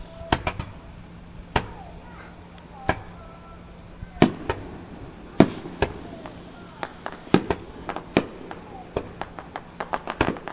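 Aerial fireworks shells bursting: a string of sharp, irregular bangs that come thicker and faster near the end.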